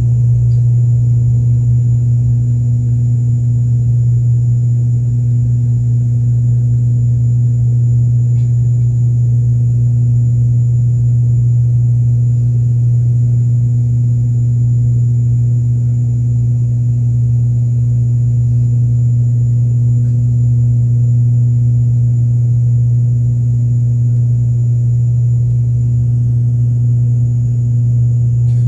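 Aircraft engines droning steadily, a loud, even low hum with a faint high whine above it and no change in pitch.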